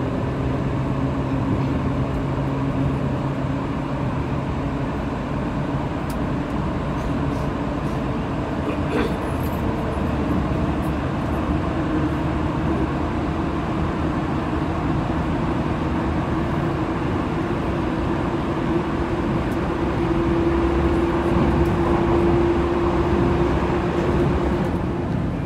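Running noise of a JR 185 series electric train heard from inside the passenger car: a steady rumble of wheels on rail with a humming tone that rises a little in pitch and grows slightly louder near the end. The run is through a tunnel until daylight appears at the very end.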